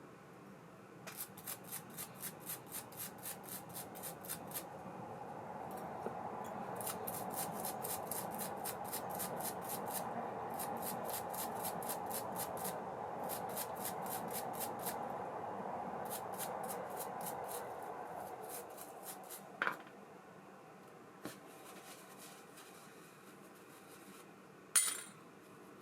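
ABU Ambassadeur 5500C baitcasting reel being turned by hand: runs of even clicking, about four clicks a second, over a whirring spin that swells and then fades. Toward the end come a few separate sharp clicks, the last one loud and briefly ringing.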